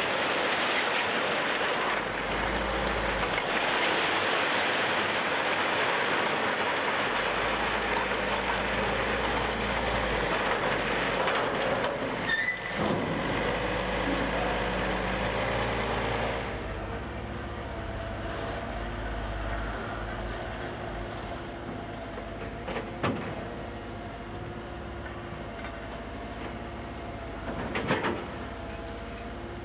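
Heavy diesel truck machinery: a loud, even rushing rattle for about the first sixteen seconds, which drops away suddenly and leaves the engine running steadily, with two short knocks near the end.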